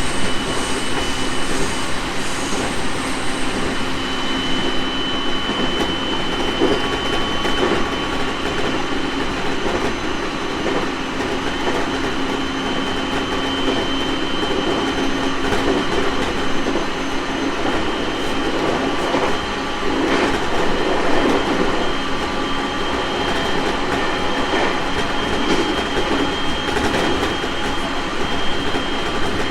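JR East 701 series 1000-subseries electric multiple unit running at speed: a steady rumble of wheels on rail with a thin, level high whine over it.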